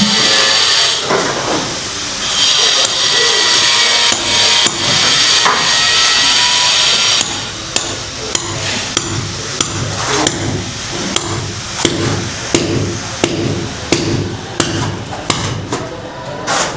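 Hammer blows on a masonry wall as workers knock into it, striking about twice a second through the second half. A loud, steady high-pitched noise runs under the first seven seconds or so.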